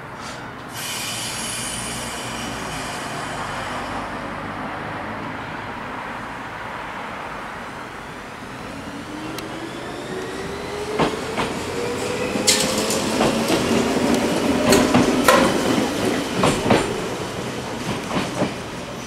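Echizen Railway electric railcar 6102 pulling away and gathering speed: a motor whine that rises in pitch, with the wheels clicking over rail joints from about halfway through, loudest as the car passes close by.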